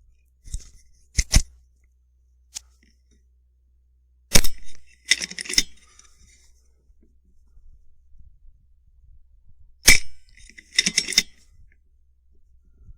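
Mechanical clicking and shots from an FX Impact M3 PCP air rifle: two sharp reports about five and a half seconds apart, each followed within about a second by a quick cluster of clicks, with a double click and a fainter click near the start.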